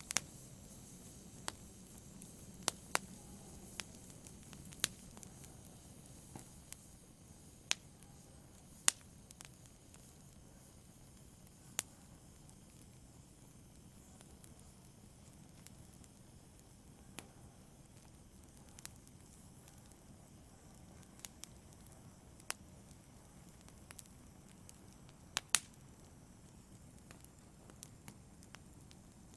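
Wood fire burning in a fireplace: a faint low hiss with sharp, irregular crackles and pops, one every second or two, two of the loudest near the middle and about three-quarters through.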